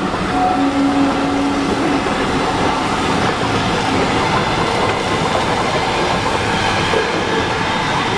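Train running along the track with a steady rumble and clatter. A faint steady tone sits over it for about the first two seconds.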